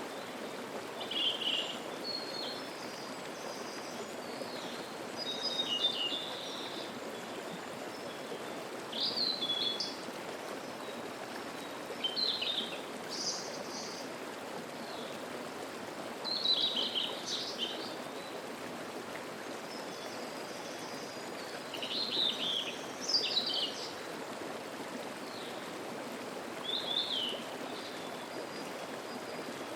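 Mountain stream babbling steadily, with wild birds singing short, chirpy phrases every second or two.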